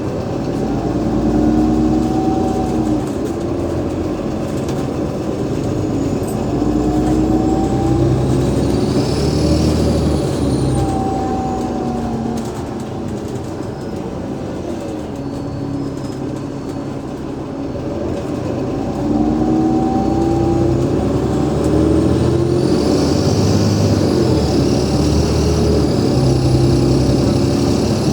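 A bus's Cummins ISL8.9 inline-six diesel and ZF Ecolife automatic gearbox heard from on board, the engine note rising and falling repeatedly as the bus accelerates through its gears. A high whine rises and falls about a third of the way in, then rises again near the end and holds. The running gets quieter for a few seconds mid-way and louder again about two-thirds through.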